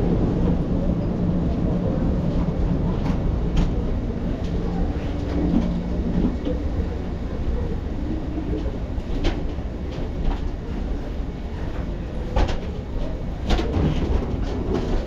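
Ride noise inside a moving train carriage: a steady low rumble with scattered clicks and knocks from the wheels and car.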